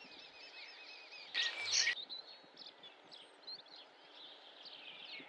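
Small songbirds chirping and twittering in quick repeated notes, with one louder, harsher burst of sound lasting about half a second about a second and a half in.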